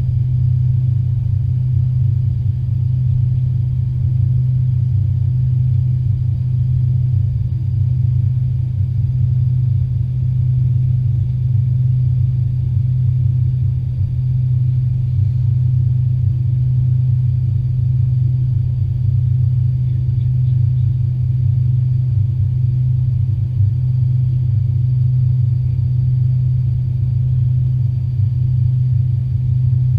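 Steady low drone inside the passenger cabin of an Avro RJ85 airliner, from its four turbofan engines running and the airflow, with a faint thin high whine above it.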